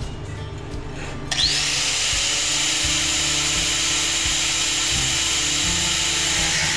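A power tool spins up about a second in with a rising whine, then runs steadily at full speed until it winds down near the end.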